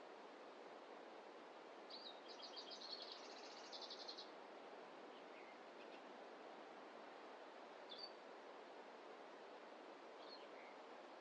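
A small songbird sings a rapid high trill lasting about two seconds, starting about two seconds in, then gives a few single short chirps. Under it runs a faint, steady, even rushing background.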